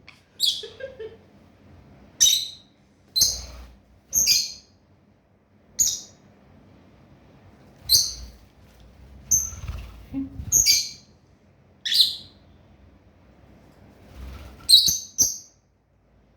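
Pet birds giving short, high-pitched chirps, about a dozen single calls a second or two apart at uneven intervals.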